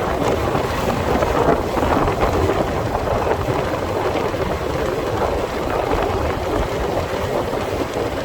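Steady rushing wind and road noise from a moving motorcycle, with no distinct engine note standing out.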